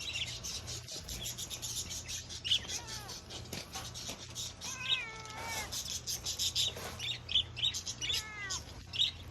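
Small birds twittering, with rapid high chirps throughout, while a cat makes a few short falling meows, about halfway through and again near the end.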